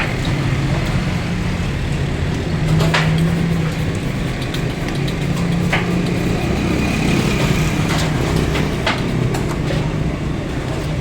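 Steady road traffic with an engine's low hum, broken by a few sharp knocks.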